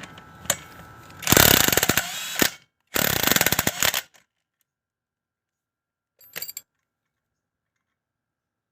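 Two loud bursts of a rattling power tool, about a second each, then a short third burst about six seconds in.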